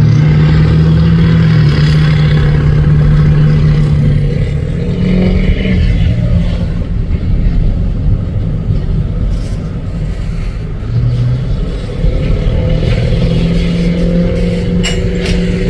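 Train going through a road crossing: a steady, loud drone that eases off a few seconds in and builds again toward the end, with a few clicks.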